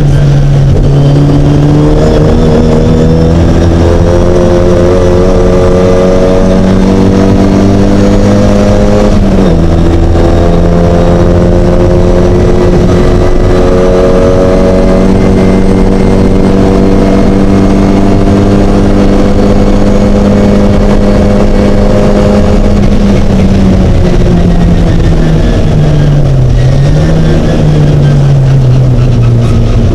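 Mini race car's engine at full throttle, pitch climbing slowly, with an upshift about nine seconds in. Near the end the revs fall and dip, then climb again as it brakes, downshifts and pulls away.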